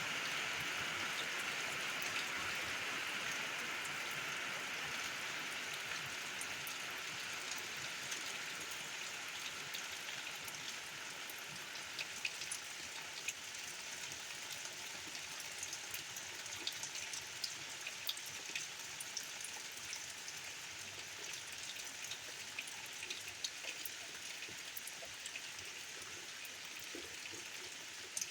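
Steady soaking rain pattering on a tin roof. A hiss that slowly eases, with more and more single drops striking sharply and separately from about ten seconds in.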